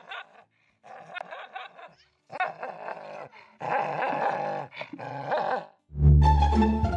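A dog growling and barking in several short bouts, then plucked-string music comes in near the end.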